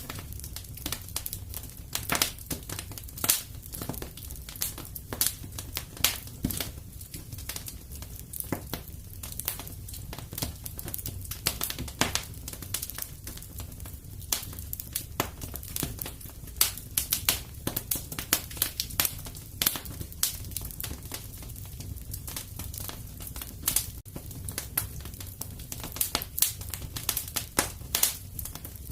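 Wood fire crackling in a fireplace: frequent irregular sharp pops and snaps over a low steady rumble.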